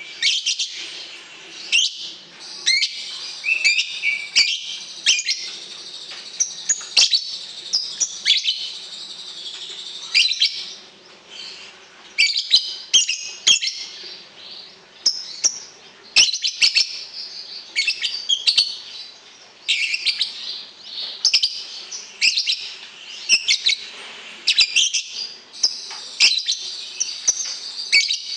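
Small songbirds chirping and trilling without pause, in rapid high, sharp notes with frequent louder chirps: a birdsong recording used to train young caged songbirds.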